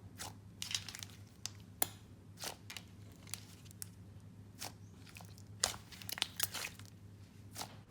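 Hands playing with a pink clay slime topped with heart sprinkles, giving faint, irregular crackles and pops as it is stretched and squeezed.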